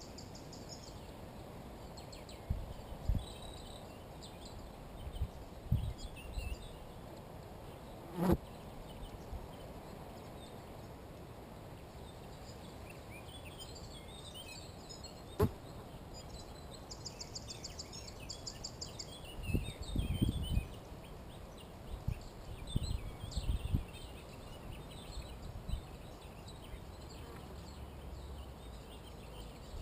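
Wild songbirds calling and singing: scattered high chirps and two bursts of a rapid high trill, one a little past halfway. A few short low muffled bursts of sound and two sharp clicks are heard in between.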